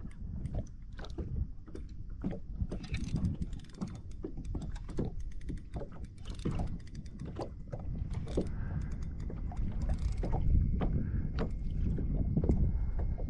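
Fishing kayak handling noise: irregular knocks and clicks against the hull over a steady low rumble, with some water sloshing.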